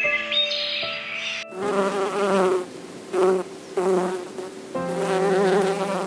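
Honeybees buzzing in several swells that rise and fall, starting about a second and a half in. Soft background music with held notes plays before them and faintly under them.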